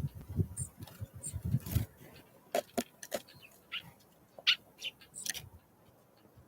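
Small wild birds at a feeder, pecking and tapping: a run of soft low thuds in the first two seconds, then irregular sharp clicks and knocks, with a few short high chips.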